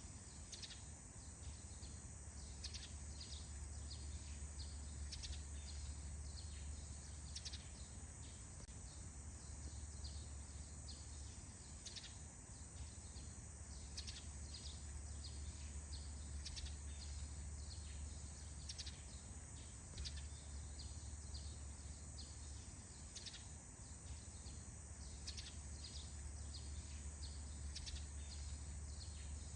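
Forest birds chirping in short, quick calls, several every couple of seconds, over a steady high-pitched hiss and a low steady rumble.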